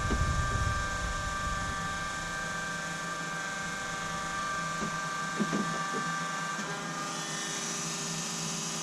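12-volt battery-powered fuel transfer pump running steadily with an even electric whine while pumping fuel from a 100-gallon tank into a combine. A low rumble at the start fades out within the first second or so.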